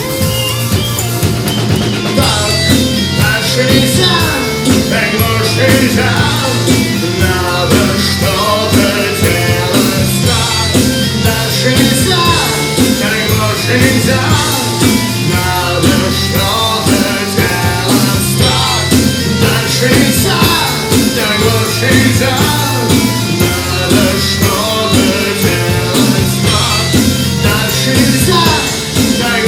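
A rock band playing a song live, in a passage without lyrics: a drum kit and bass guitar keep a steady repeating groove under busy melodic lines from the lead instruments.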